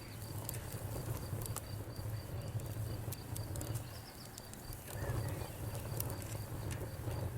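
Wood fire crackling: irregular sharp pops and snaps over a steady low rumble, with a quicker cluster of crackles about five seconds in. A faint, high-pitched chirp pulses evenly all the way through.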